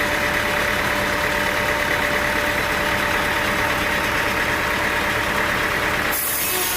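Sawmill machinery running steadily, an engine-like drone with a constant whine. About six seconds in the sound changes abruptly to a thinner, hissier one.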